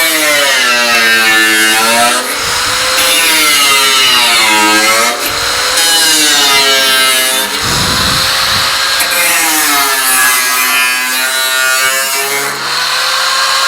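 Handheld power tool's motor running hard, its whine repeatedly dipping in pitch and recovering as it bears on the work.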